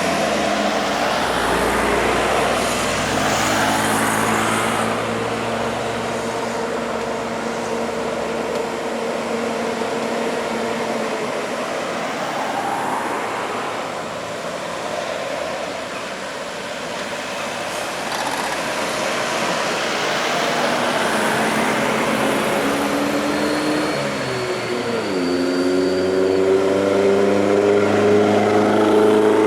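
Heavy trucks driving past on a road, their diesel engines pulling under load over steady tyre and traffic noise. About 25 seconds in, one engine's pitch drops sharply at a gear change, then climbs again as the truck accelerates.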